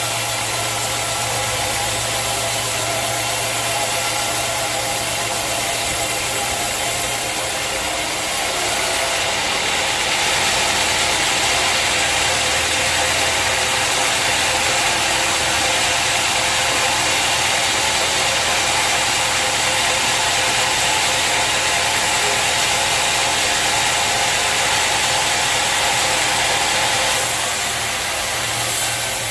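Sawmill running steadily with a constant engine hum. A louder hiss rises about a third of the way in and drops away shortly before the end.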